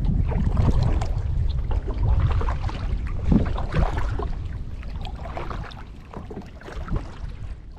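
Kayak being paddled: irregular paddle splashes and drips in the water over a low rumble of wind on the microphone, growing quieter toward the end.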